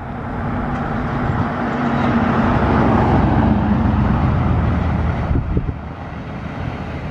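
Fire engine driving past close by, its engine sound swelling to a peak about halfway through and then dropping off.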